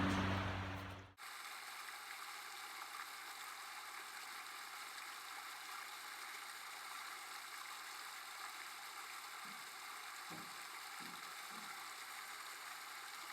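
Steady rushing hiss of a small stream's running water, with a few faint soft thumps near the end.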